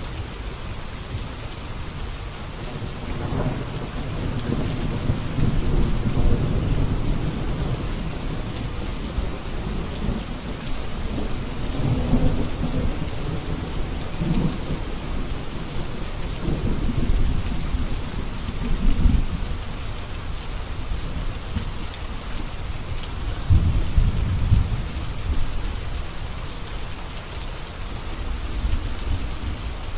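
Steady rain falling, with rolls of distant thunder rumbling low beneath it several times, the loudest around two-thirds of the way in and again a little later.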